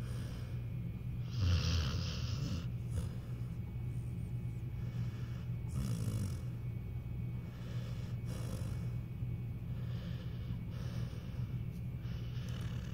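Pit bull snoring in its sleep, a rasping breath every two seconds or so, the loudest about a second and a half in, over a steady low hum.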